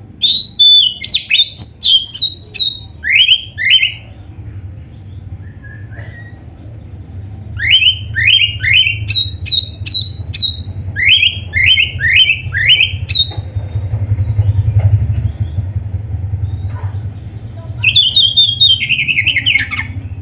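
Oriental magpie-robin (kacer) singing in three bursts of rapid, sharp notes, many sweeping downward, with a steady low hum underneath.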